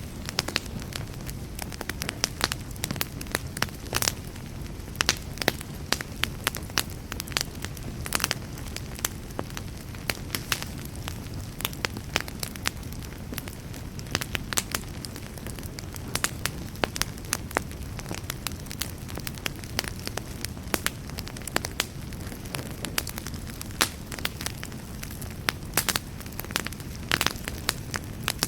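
Wood fire burning in a fireplace: a steady low rush of flames with irregular sharp crackles and pops, several a second.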